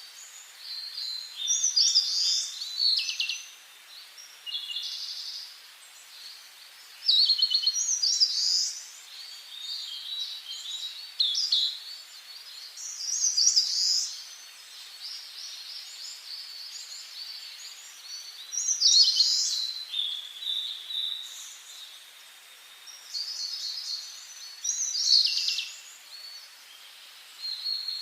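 Songbirds singing in short, high phrases repeated every few seconds with pauses between, over a faint steady hiss.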